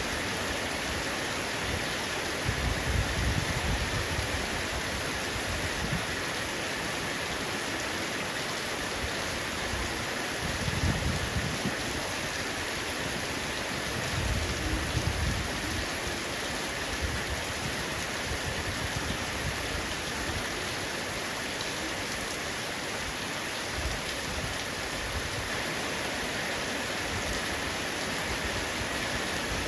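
Heavy rain falling steadily on a roof, an even hiss, with low rumbles of thunder rising out of it about three seconds in, around eleven seconds and around fifteen seconds.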